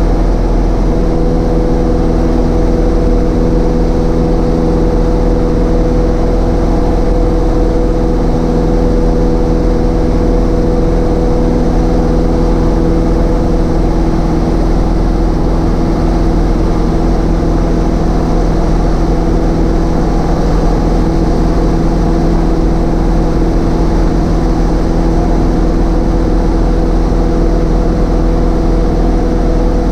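Cessna 152's four-cylinder piston engine and propeller running steadily, a constant drone with a hum of even engine tones.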